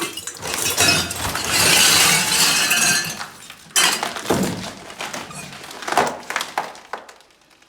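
Glass clinking and crunching as a wooden crate of glass ornaments is turned round and handled: a dense rattle of glass for a couple of seconds, then two sharper knocks about four and six seconds in.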